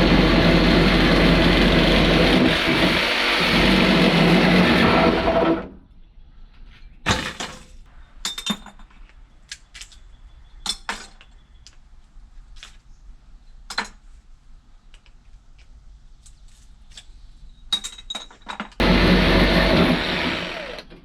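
A loud, steady motor-driven machine runs and cuts off about six seconds in. Scattered light metal clinks and knocks follow, then the machine starts up again near the end.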